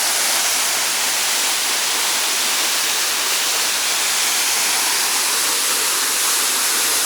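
Waterfall crashing into its pool, a steady dense rush of water with its weight in the high hiss.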